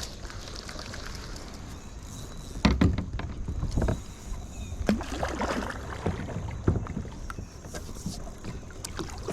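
Water sloshing and splashing around a kayak, with knocks against the hull, loudest about three seconds in and again around five to seven seconds.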